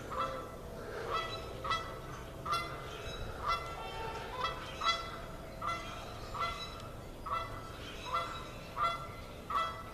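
Geese honking: a steady series of short calls, a little more than one a second.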